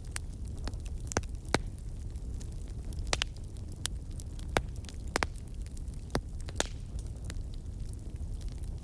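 Wood fire crackling: irregular sharp pops and snaps, a dozen or so, over a low steady rumble.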